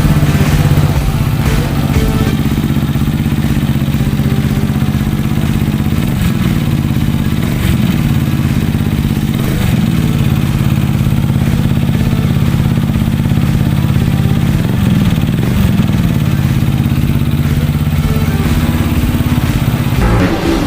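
Yamaha XMAX 250 scooter's single-cylinder four-stroke engine, fitted with a custom camshaft and a full-system aftermarket exhaust, running under load on a dynamometer. It holds a steady engine speed, with a few brief dips and rises in pitch.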